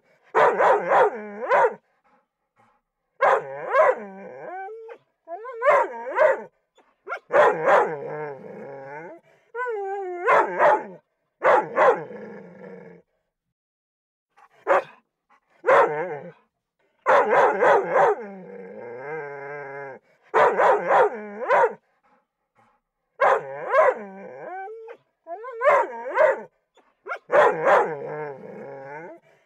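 Recorded dog whimpers and whines played back from a dog-sounds app: a string of high, wavering whines of one to two seconds each, separated by short silences.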